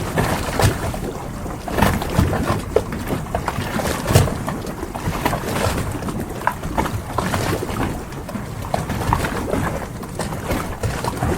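Harbour ambience: a steady wash of water and wind, broken by scattered knocks and short creaks.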